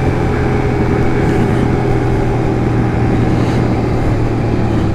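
Kawasaki KLX140 pit bike's single-cylinder four-stroke engine running at a steady speed while riding, with a rush of wind noise.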